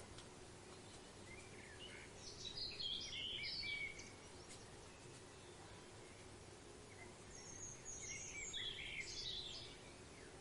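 Bird-of-paradise calls: two bursts of rapid, high, chattering notes, the first about two and a half seconds in and the second near the end, over a steady background hiss.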